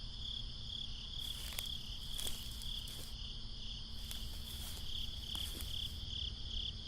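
Crickets chirping in a steady, softly pulsing trill, with a few faint clicks scattered through.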